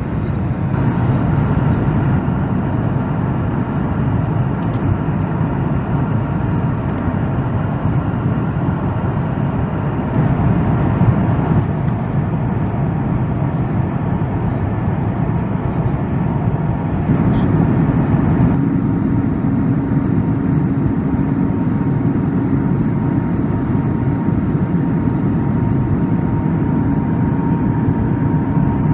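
Boeing 737 MAX 8's CFM LEAP-1B jet engines running, heard from inside the cabin: a steady loud rush with a few held tones. The tones shift about a second in and again around ten seconds in, and a low hum sets in at about seventeen seconds.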